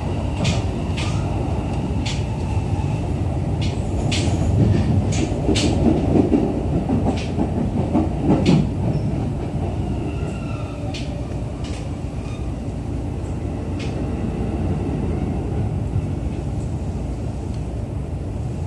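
Running noise inside a JR East E531 series electric train car: a steady low rumble with irregular sharp clicks of the wheels over rail joints. The clicks come thickly in the first half, and the rumble eases slightly after about nine seconds.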